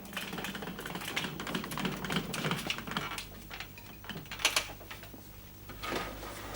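Irregular run of light clicks and taps, with a louder pair of knocks about four and a half seconds in.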